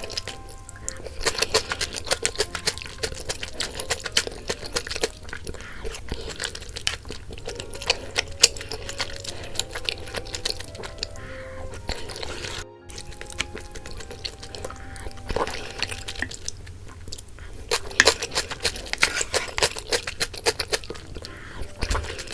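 Light, cute background music over close-miked eating sounds: chewing with frequent crisp clicks, broken by a short cut about 12 seconds in.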